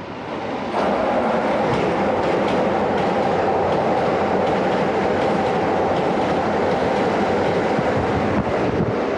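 Keisei Line limited express train running through a station at speed without stopping: a steady loud rumble of wheels on rail with regular clicks over the rail joints, coming up suddenly about a second in and easing near the end.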